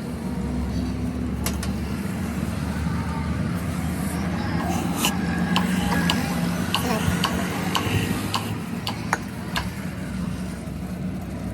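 An engine running steadily, with a series of sharp metallic clinks over it, like tools or metal parts being handled.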